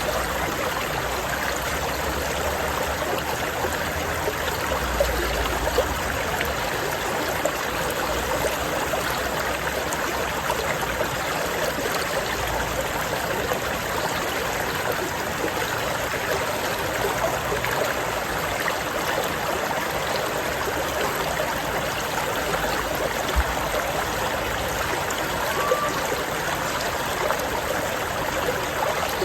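A stream flowing and babbling steadily over rocks.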